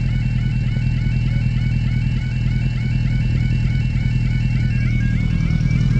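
Level crossing audible warning alarm sounding continuously with a rapidly repeating warble, because the crossing has failed with its barriers down. A steady low engine rumble from idling road traffic runs beneath it.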